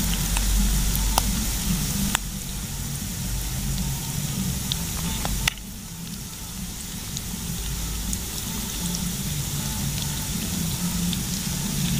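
Moringa-leaf vegetable fritter batter (bala-bala) sizzling in hot oil in a pan over a wood fire, a steady hiss with scattered sharp crackles. The sound drops suddenly about five and a half seconds in, then carries on more quietly.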